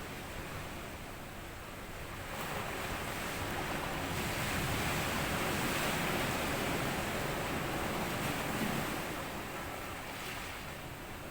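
Small sea waves washing up onto a sandy beach. The surf swells up about two seconds in, rushes for several seconds, then recedes near the end.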